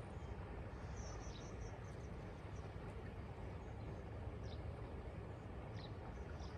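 Birds chirping in short calls a few times, about a second in and again in the second half, over a steady low rumble.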